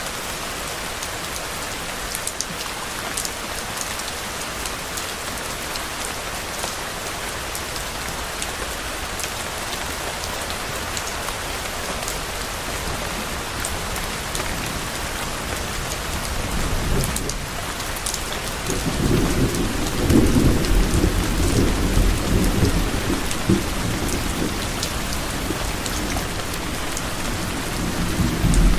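Steady rain falling, with individual drops pattering, while low thunder rolls in about two thirds of the way through, swelling for several seconds and rumbling on to the end.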